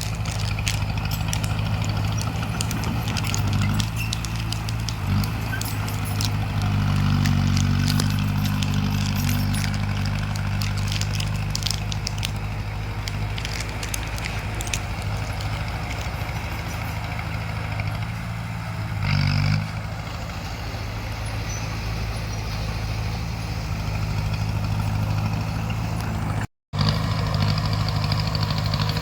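Bulldozer's diesel engine running steadily under load, pulling harder for a few seconds about six seconds in, with many sharp clicks and crackles over the first half. The sound cuts out for an instant near the end.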